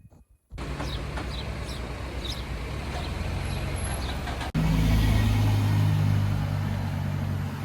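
Steady running noise of a moving vehicle with a low hum, with a few short high chirps in the first half. About halfway through it cuts abruptly to a louder, steadier low drone.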